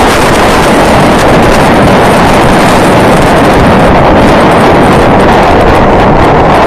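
Loud, steady rush of wind buffeting the microphone, with no pitched sound or speech in it.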